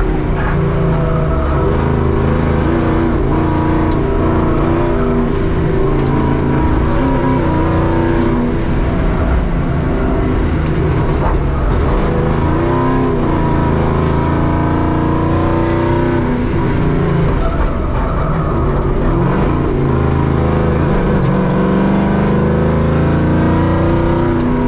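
Żuk van's V8 engine heard from inside the cabin, pulling hard with the revs rising and falling several times as it is driven at speed.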